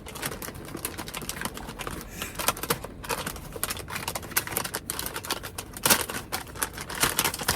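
Plastic snack bag of lotus root chips being handled and opened, crinkling and crackling in a quick irregular run of small snaps.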